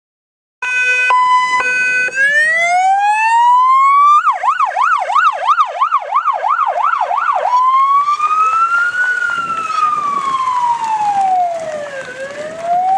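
NSW Police car siren sounding. It opens with a short stepped two-note tone, sweeps up into a rising wail, switches to a fast yelp of about three cycles a second, then goes back to a slow wail that falls and rises again.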